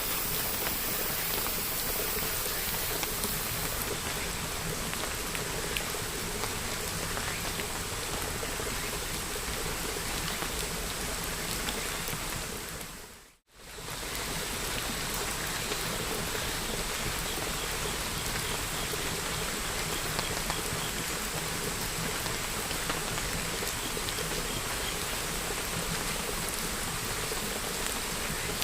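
Steady rain falling, a continuous hiss of many drops. About 13 seconds in it fades down to silence for a moment and fades straight back in.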